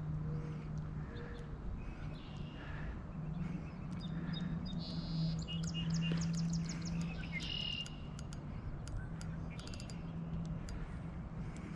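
Small birds chirping repeatedly over a steady low hum that comes and goes. About five seconds in there is a quick run of sharp clicks, and a few more come near the end.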